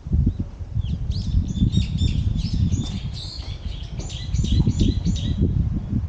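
Small songbirds chirping, a quick run of repeated high chirps from about a second in until near the end, over a low rumble.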